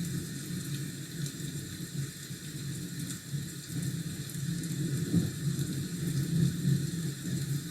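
Steady rain ambience with a low, uneven rumble underneath.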